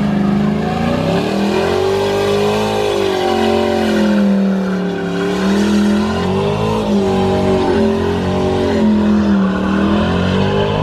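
A car engine held at high revs for a burnout, its pitch swinging up and down over a few seconds at a time.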